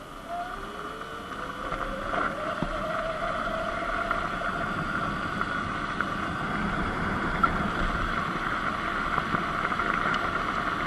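Surron Light Bee X electric dirt bike under way, its motor whine rising in pitch as it picks up speed over the first few seconds and then holding steady, with wind noise on the microphone growing louder.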